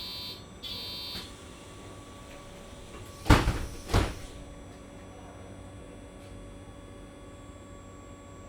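Bus door-closing warning: two short high beeps, then two loud bursts about a second apart from the door mechanism as the doors shut on the MAN Lion's City Hybrid city bus. After that the bus's steady low hum continues.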